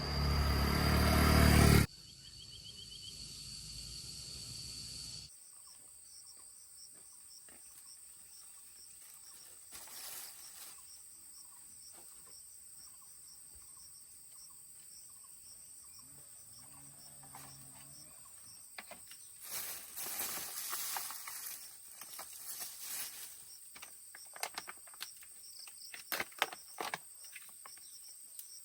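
A loud engine sound rising for about two seconds, then cutting off abruptly. After that, insects chirr in a steady high drone, with scattered clicks and knocks toward the end.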